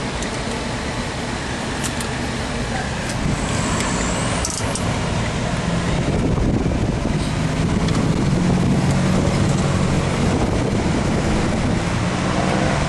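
Car on the move: steady engine and road noise, getting somewhat louder a few seconds in, with a few light clicks.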